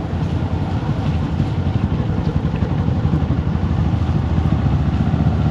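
Motorcycle engine running steadily while riding, with a rapid low pulsing and wind and road noise over it.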